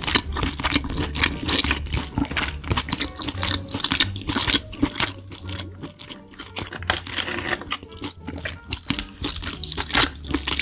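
Close-miked eating of spicy sauced seafood: rapid wet smacking and clicking chewing sounds, coming in uneven clusters with short gaps.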